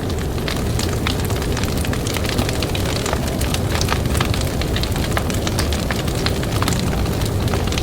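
Campfire crackling, with many sharp pops and snaps, over a steady low rumble of blizzard wind.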